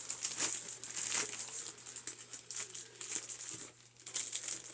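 Packing paper crinkling and rustling as it is handled and searched through, in irregular crackly bursts with a brief lull near the end.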